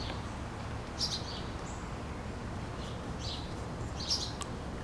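Small birds chirping in short, high calls, a handful scattered over a few seconds, over a steady low background rumble.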